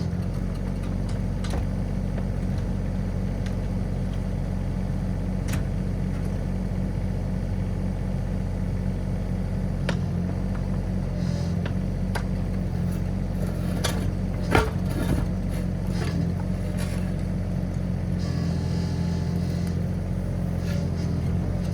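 Komatsu PC16 mini excavator's diesel engine running steadily, with a few sharp clicks and clanks over it.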